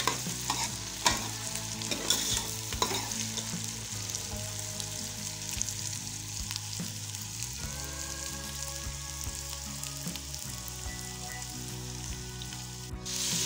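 Onions and ginger-garlic paste sizzling in hot oil in an aluminium pot. A metal spoon clicks and scrapes against the pot while stirring during the first three seconds, then the sizzle goes on steadily over a low hum and cuts out briefly near the end.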